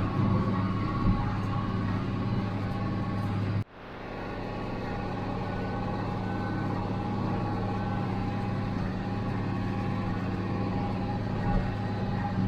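Steady drone of an International Harvester 886's D-360 diesel engine working under load while pulling a running John Deere 348 square baler. About a third of the way in the sound cuts out sharply, then swells back over a couple of seconds.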